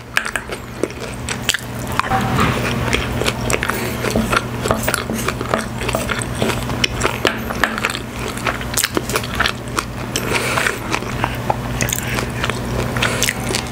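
Close-miked chewing and mouth sounds of a person eating, with many sharp, wet clicks and smacks.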